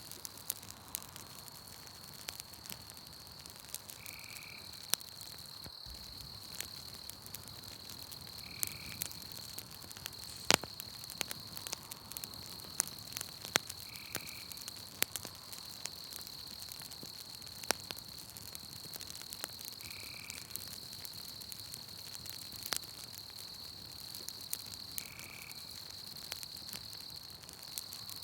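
Campfire crackling, with sharp irregular pops and snaps, over a steady high chirring of night insects. A short call repeats every five seconds or so.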